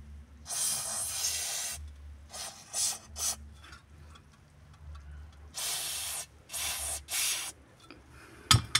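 Aerosol can of spray lubricant (Vaselina Car 80) hissing in repeated bursts, some about a second long and others short squirts, as it is sprayed onto a rear shock absorber's rubber bushing to stop it squeaking. A sharp click near the end.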